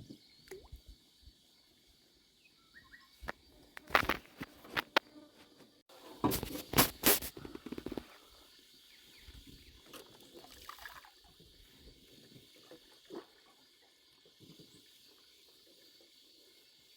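Two short clusters of knocks and splashing, about four seconds in and again from six to seven and a half seconds, with scattered lighter clicks after. Underneath runs a steady high insect buzz.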